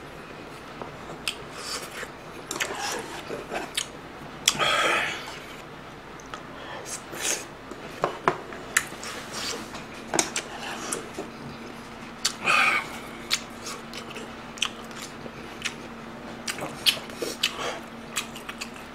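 Close-miked chewing of a mouthful of food, with many sharp, wet mouth clicks and smacks. Two longer, louder noisy sounds come about five seconds in and again about twelve and a half seconds in.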